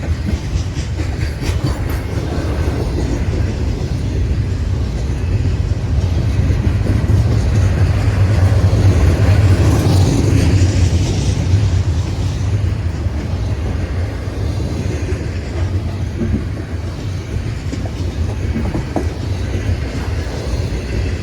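Intermodal freight train's container and trailer cars rolling past, a steady rumble of steel wheels on the rails that grows loudest about halfway through and then eases off a little.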